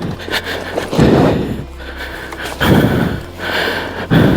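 A man breathing hard, with heavy gasping breaths about every one and a half seconds: winded from exertion.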